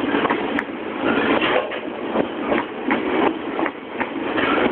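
Freight train of container flat wagons rolling past, steel wheels on rail making a steady rolling noise with clacks over the rail joints about twice a second.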